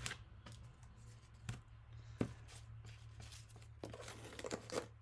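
Faint rustling and crinkling of leaves and cardboard being handled and placed, with scattered light taps, the sharpest a little over two seconds in.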